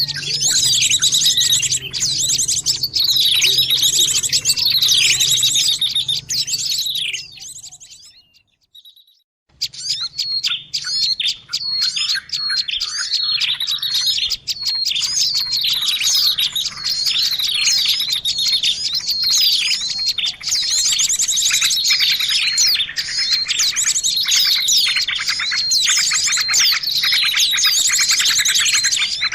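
Dense, noisy chorus of many small birds chirping and twittering over one another, a bird-luring call recording. It fades out about seven seconds in, breaks off for a second or two, then starts again just as busy.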